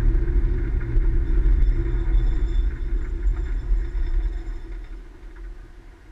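Low vehicle rumble with a faint high whine, fading away over the last two seconds.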